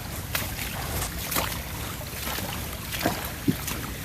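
Outdoor creek-side ambience: a steady low rumble of wind on the microphone and moving water, with scattered sharp knocks or splashes, the loudest one near the end.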